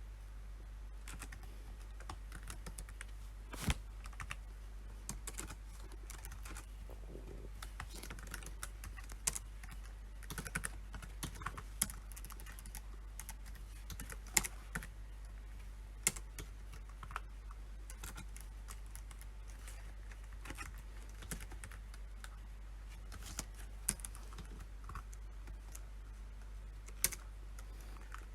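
Typing on a PC keyboard: irregular runs of keystrokes with pauses, and a few single clicks clearly louder than the rest, over a steady low hum.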